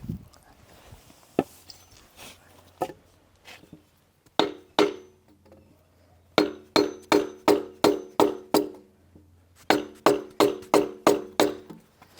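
Repeated sharp blows on metal, each with a short ring: two strikes, then two runs of about three blows a second. Likely a hammer tapping the Kubota's slackened alternator to knock it further back for a fan belt change.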